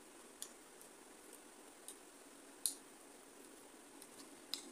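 Close-up mukbang eating sounds: about half a dozen sharp, wet clicks and smacks of a mouth chewing rice and food eaten by hand, the loudest a little past the middle, over a faint steady hum.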